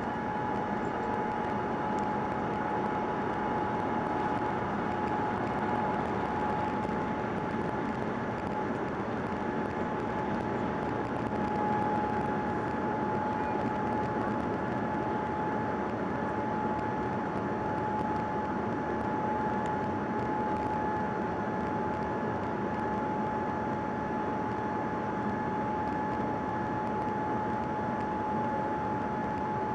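Steady in-flight cabin noise of a Boeing 787-9 airliner: an even rush of air and engine noise with a steady high whine running through it.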